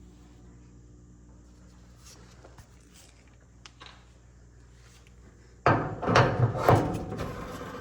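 A few faint clicks, then about two thirds of the way in a sudden run of loud, irregular knocks and clatter lasting about a second and a half, like hard parts being handled or bumped together.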